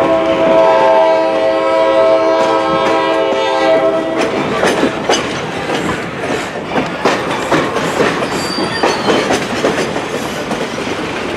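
A locomotive's warning signal sounds one long, steady chord of several notes, heard from aboard a passenger car, and cuts off about four seconds in. After it, the car's wheels click and knock over the rail joints as the train rolls along.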